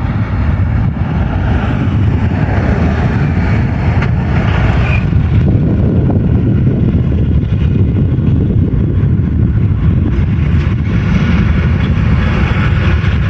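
Train passing close by: a loud, steady low rumble that swells slightly in the first second and then holds level.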